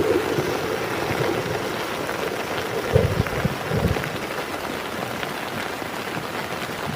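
Heavy rain falling steadily, with a few dull low thuds about three to four seconds in.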